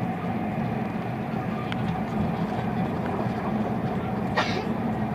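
Steady rumble of a moving train heard from inside the passenger carriage, with a short sharp click about four and a half seconds in.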